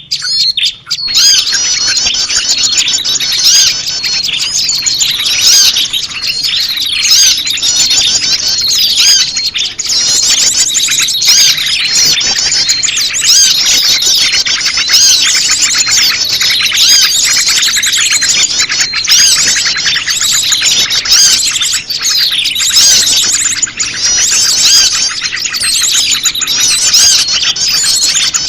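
Dense, continuous chorus of small songbirds, high-pitched chirps and trills overlapping without pause: a bird-lure recording of prenjak lumut calls mixed with many other small birds.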